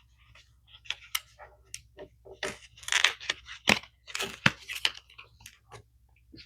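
Toy packaging being torn open and handled: an irregular run of crackles, rips and rustles, loudest about three and four and a half seconds in.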